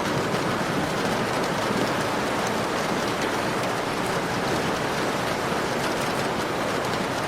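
Heavy rain falling steadily, an even hiss with no thunder clap standing out.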